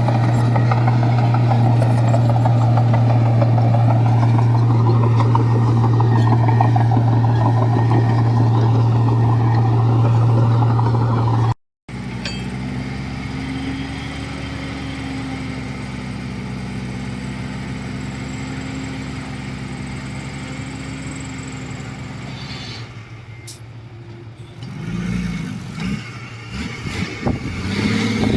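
Heavy diesel engine of earthmoving machinery running steadily and loudly under load, cut off abruptly about twelve seconds in. A different diesel machine then runs more quietly, and near the end it revs up and down several times.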